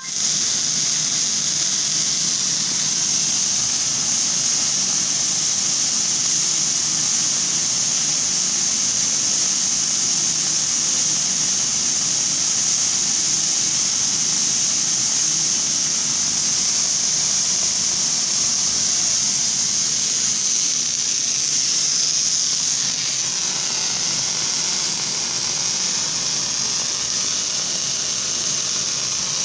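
Semi-automatic MIG welding arc running steadily in an automated hardfacing rig, an even, high hiss that shifts slightly and drops a little in level about twenty-three seconds in.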